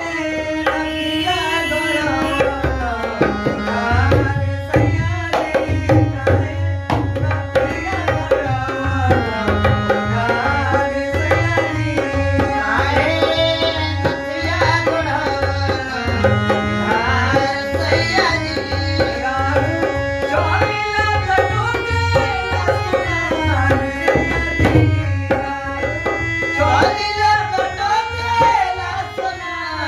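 Harmonium playing the melody of a Bhojpuri folk song over a steady dholak hand-drum rhythm.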